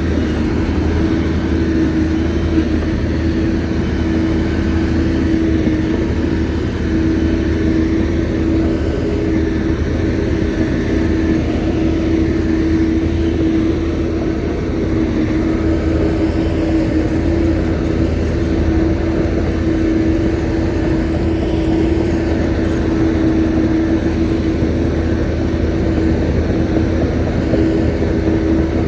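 Shantui crawler bulldozer's diesel engine running steadily at a constant pitch, with a steady humming note over the engine sound.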